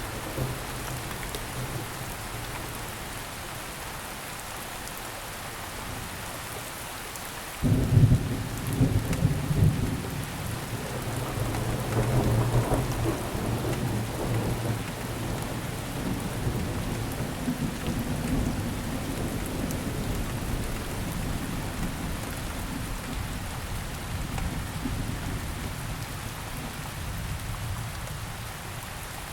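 Steady rainfall on surfaces with thunder: a sudden loud peak about eight seconds in, followed by long rolling rumbles that slowly die away.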